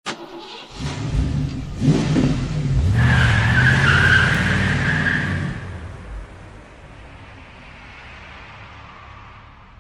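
A car engine revving up, with a high tyre squeal from about three seconds in that lasts a couple of seconds. It then fades to a steady hiss.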